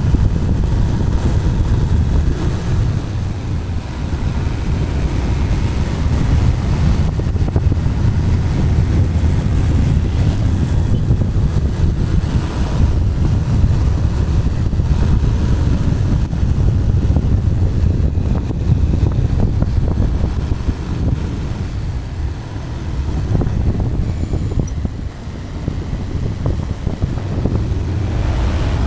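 Single-cylinder Bajaj Pulsar 220 motorcycle being ridden along a highway, a steady low rumble of engine and wind buffeting heard through a helmet-mounted camera's microphone. The loudness dips briefly about three-quarters of the way through.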